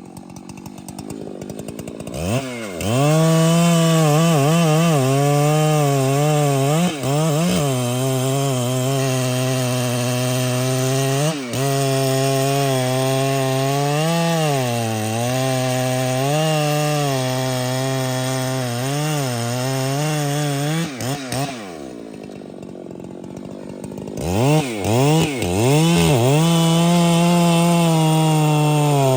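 Large two-stroke professional chainsaw revving up about two seconds in and running at full throttle, its pitch sagging and recovering as it loads up in the trembesi wood. Near the end it drops back for a couple of seconds, is blipped a few times, and runs at full speed again.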